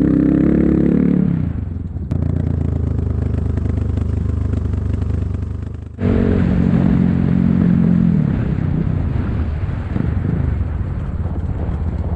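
Enduro motorcycle engine running under load. It eases off about two seconds in, runs lower for a few seconds, dips again about six seconds in, then picks up strongly and pulls hard again.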